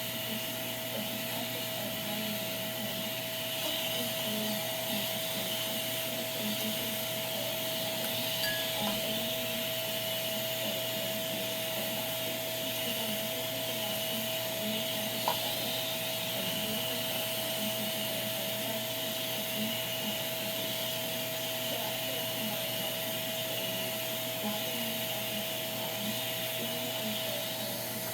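Shark vacuum cleaner running steadily with a constant whine, used to suck dust off a ceiling fan; one sharp tick about halfway through.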